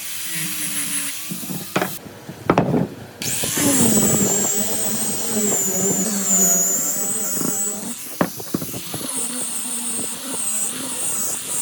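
Handheld electric power tool working wood, its motor whine dipping and rising in pitch as it comes under load, with a few sharp clicks.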